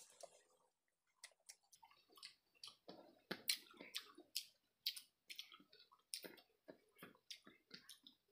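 Close-up chewing of crisp raw cucumber slices and food: a run of irregular crunches and wet mouth clicks that starts about a second in.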